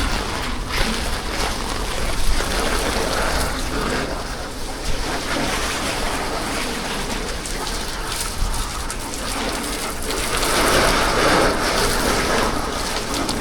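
Steady rain falling, a continuous hiss and patter of drops, swelling louder for a couple of seconds about ten seconds in.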